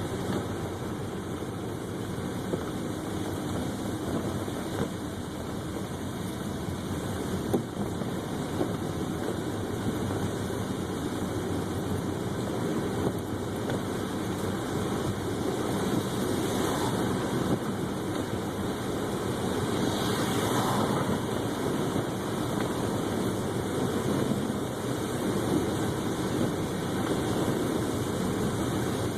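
Steady road and engine noise inside a car driving on a snowy road, heard from the dashboard, with a few faint clicks and two brief louder whooshes about seventeen and twenty seconds in.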